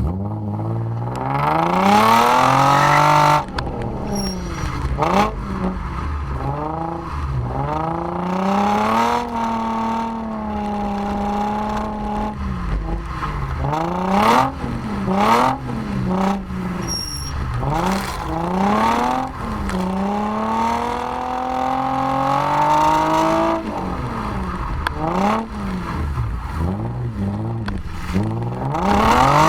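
Nissan 350Z's VQ35DE 3.5-litre V6 through a cat-deleted, true-dual exhaust, accelerating hard with the revs climbing steeply and dropping at a gear change about three seconds in and again about 23 seconds in. In between, the revs hold steady for a few seconds, then rise and fall repeatedly.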